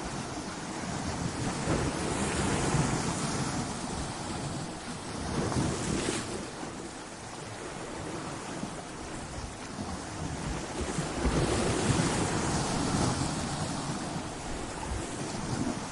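Ocean surf breaking against rocks: a continuous wash of water noise that swells and eases, with louder surges of breaking waves a few seconds apart.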